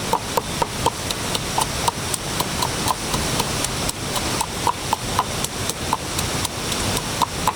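A steady run of short, sharp knocks, about three a second, each with a brief ringing tone, over a constant hiss.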